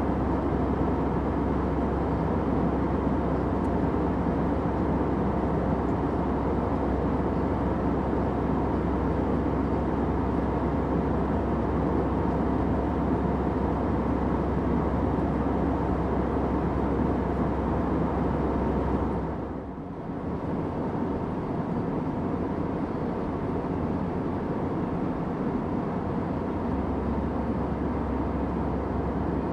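Steady airliner cabin noise: the even rushing drone of jet engines and airflow heard from inside a plane in flight, with a low hum under it. The noise dips briefly about two-thirds of the way through, then carries on as before.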